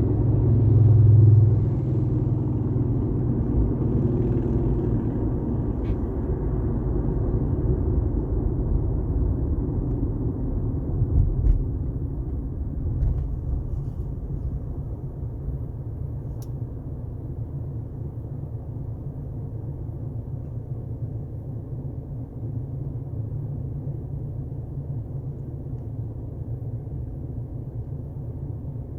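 Car driving at highway speed: a steady low rumble of road and engine noise, swelling louder about a second in and easing slightly in the second half.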